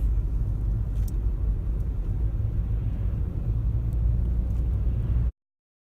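Car cabin noise while driving: a steady low rumble of engine and tyres on the road. It cuts off suddenly a little after five seconds in.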